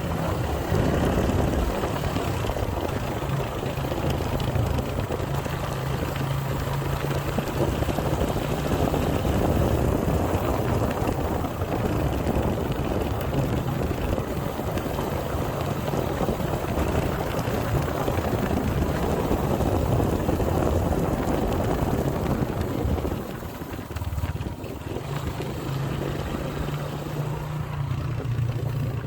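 Motorcycle engine running steadily while riding, with wind rushing over the microphone; the sound drops off briefly about 23 seconds in before the steady engine note comes back.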